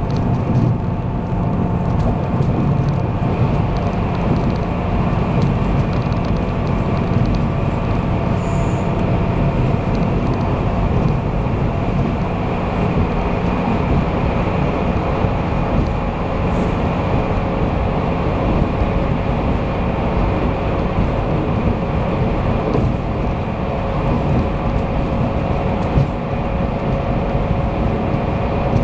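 Taiwan Railway passenger train running at speed, heard from inside the carriage: a steady rumble of wheels on the track with a faint constant hum over it.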